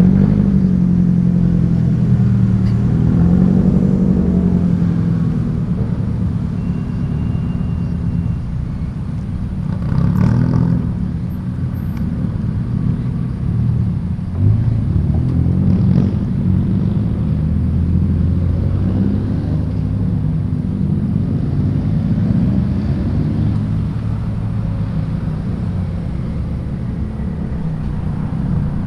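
Car engines running as cars roll out one after another, their engine notes rising and falling in pitch as they move off.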